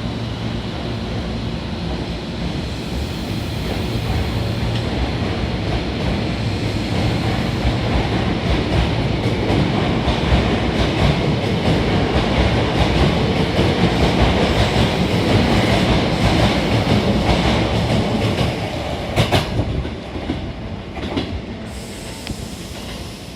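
Hankyu 1000 series electric train pulling out and gathering speed past the listener: its running noise swells over the first half, with a few sharp rail-joint clacks, then drops away about twenty seconds in as it leaves.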